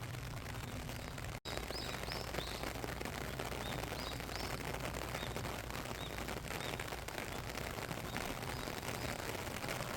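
Steady rain falling, with a dense crackle of individual drops striking close by. A small bird chirps short high notes every second or two, and the sound cuts out for an instant about a second and a half in.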